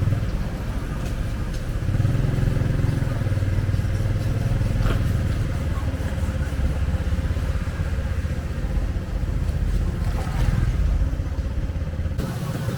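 Motorcycle engines running in street traffic, a steady low drone. The sound changes abruptly near the end.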